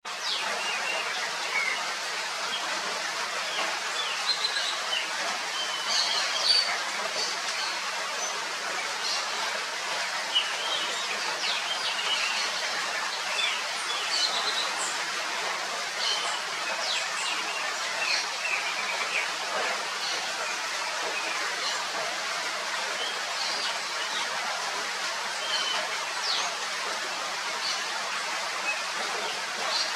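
Steady hiss of falling rain, with many short bird chirps and calls scattered throughout.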